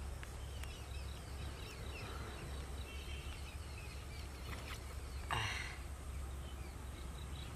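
Small birds chirping and trilling over a steady low outdoor rumble, with one brief, louder noisy burst a little after five seconds in.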